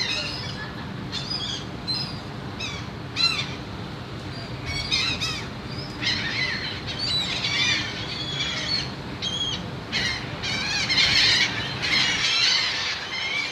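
A flock of birds calling, many short harsh calls overlapping, busiest toward the end, over a steady low hum.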